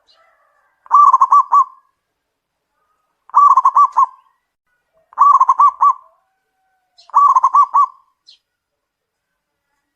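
Zebra dove cooing: four phrases about two seconds apart, each a quick run of rolling notes.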